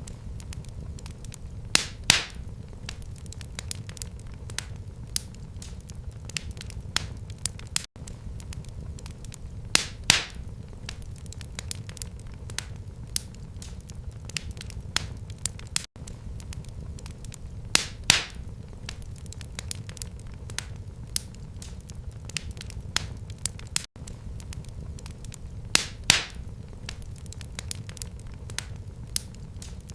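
Fire burning in a fireplace, crackling constantly with many small snaps and a louder pop about every eight seconds, over a steady low rumble.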